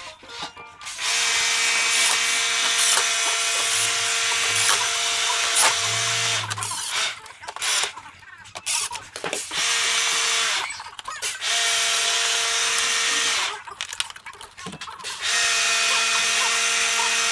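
Handheld electric drill-driver running in several bursts of a few seconds each, with short pauses between them.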